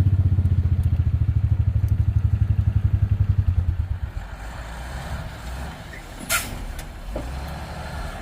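Truck engine running with a rapid, even low throb that drops away about four seconds in to a quieter rumble. There is one short, sharp click about six seconds in.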